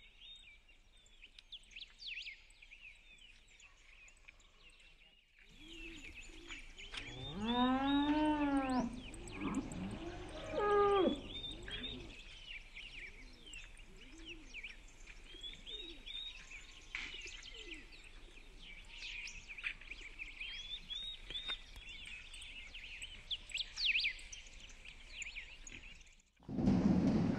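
Birds chirping and singing, many short calls. About seven seconds in, a louder, longer pitched call swells up and falls away, followed by a shorter one. Just before the end, the birdsong gives way to a louder low rumbling noise.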